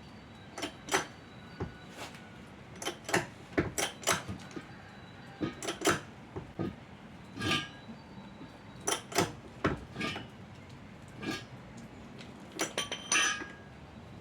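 Irregular metallic clinks and clanks of hand tools and metal parts being picked up, set down and knocked together, some ringing briefly, with a cluster of rapid clinks near the end.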